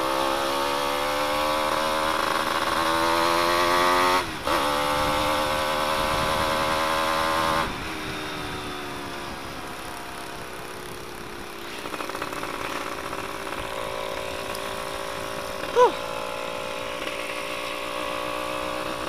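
Suzuki F1ZR two-stroke single-cylinder engine being ridden with its exhaust baffle removed, very noisy. The revs climb, drop briefly at a gear change about four seconds in, and climb again. The engine eases off about eight seconds in and runs on at lower revs.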